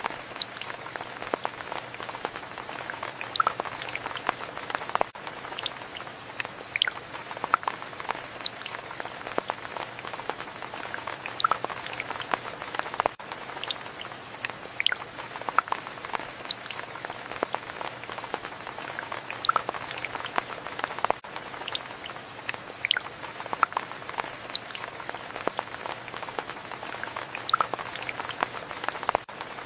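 Rain falling, a dense, irregular patter of drops striking a surface over a steady hiss.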